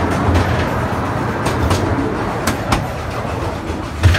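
Amusement park train's passenger cars rolling along the track: a steady low rumble, with two pairs of sharp clacks from the wheels over rail joints in the middle and a louder knock near the end.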